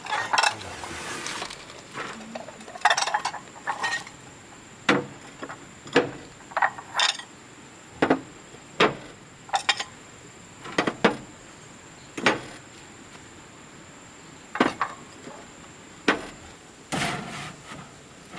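Scattered sharp knocks and clinks of hard objects being handled, about one a second, with a few short rustling scrapes near the start and near the end.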